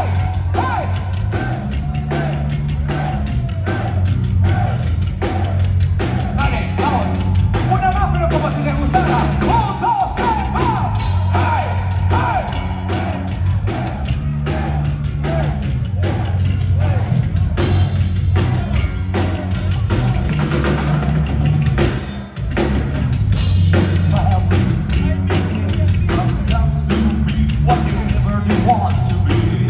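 Heavy metal band playing live: a fast, steady drum kit, heavy bass and distorted guitars, with melodic lead lines over the top. The band drops out briefly about 22 seconds in before coming back in full.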